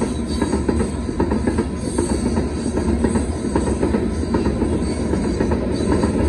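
Freight train of loaded covered hopper cars rolling past at a steady speed: a constant rumble of steel wheels on rail, with a rapid run of clicks and clacks from the wheels over the track.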